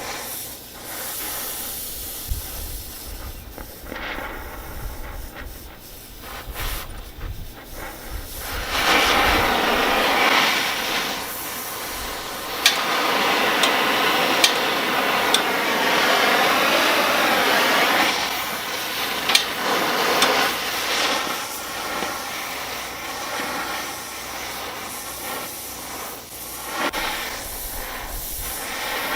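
Oxy-acetylene torch with a rosebud heating tip hissing steadily as it heats a bent steel rack member to bend it straight. The hiss is louder for a stretch from about a third of the way in to about two-thirds, with a few sharp clicks.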